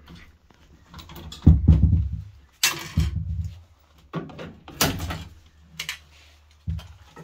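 Irregular knocks and clicks of parts and tools being handled, with a heavier thud about a second and a half in and a short scraping rush just after.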